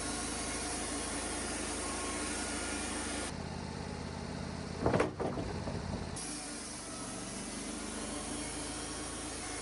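Sawmill engine running steadily with a hiss over it. The sound changes abruptly twice, and there is one loud, brief noise about five seconds in.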